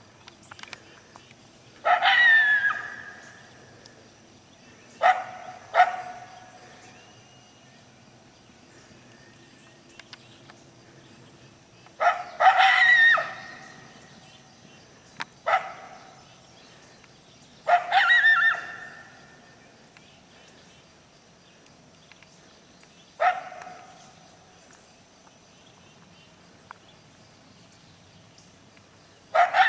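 Coyote barking and yipping, about eight calls spaced a few seconds apart; the longer ones trail off into a short falling howl.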